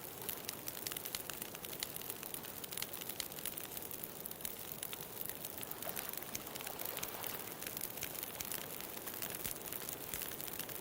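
Wood bonfire crackling, with many small irregular pops and snaps over a steady hiss.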